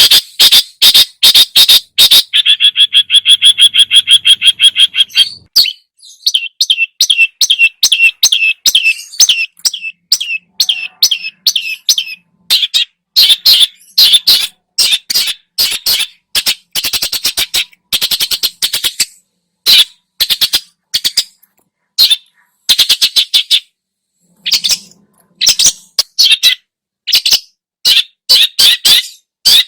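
Long-tailed shrike (cendet) singing loudly: a fast, harsh chattering song of rapid repeated notes in short bursts, with a sustained rattling trill about two seconds in.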